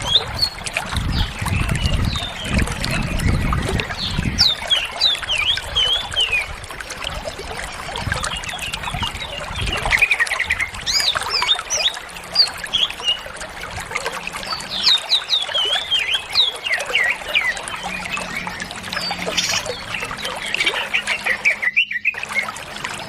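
Cucak ijo (green leafbird) singing in rapid twittering phrases of quick rising and falling notes, the full, continuous song that bird keepers prize.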